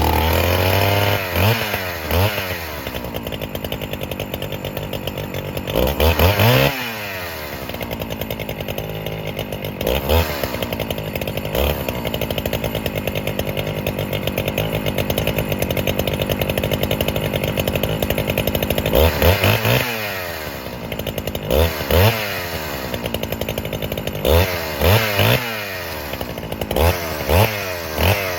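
NeoTec NH895 chainsaw, a Husqvarna 395XP clone with a big two-stroke engine, running on its very first start-up. It is revved up and let fall back several times in short throttle blips, with a longer stretch of steady running in the middle and a cluster of quick revs near the end, as it is first fired and tuned.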